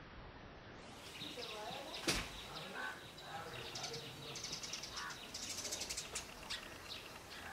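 Outdoor ambience with small birds chirping in short high calls, including a rapid high trill in the second half. One sharp click about two seconds in.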